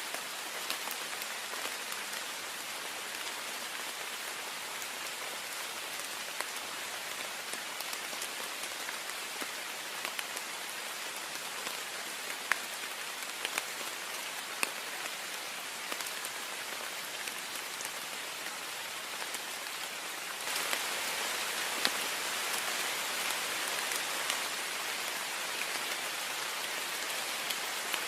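Heavy rain hitting a window pane: a steady hiss with scattered sharp drop ticks. About two-thirds of the way through it abruptly gets louder.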